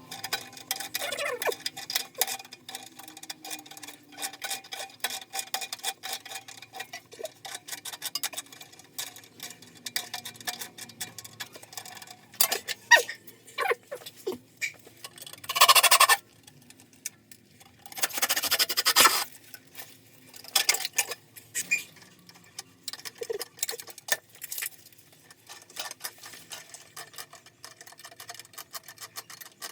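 Rapid, irregular clicking and tapping of work on pipes and fittings, with two short bursts of hiss about halfway through.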